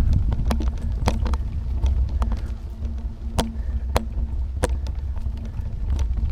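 Wind buffeting and ride rumble picked up by an action camera on a bicycle mount while riding, a steady low rumble with a faint hum, broken by a dozen or so sharp ticks and knocks, the loudest about halfway through.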